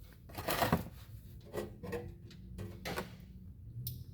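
Socket wrench working loose the engine oil drain plug: a loud scraping rasp about half a second in, then a handful of short metal knocks and scrapes and a sharp click near the end.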